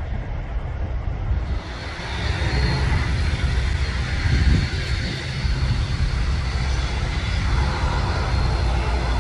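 Airliner's engines at close range, their noise swelling about a second and a half in and then holding steady over a low rumble.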